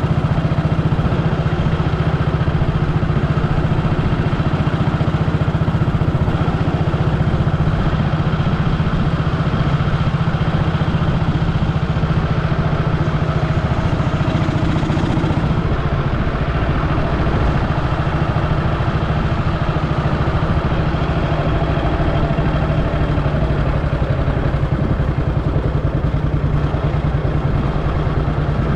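Vintage motorcycle engine running steadily at a constant, even beat, easing slightly about halfway through.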